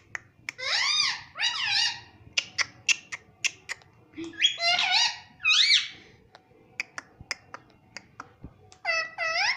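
Ringneck parrot giving short, shrill calls that rise and fall in pitch, in three bouts, with sharp clicks scattered between them.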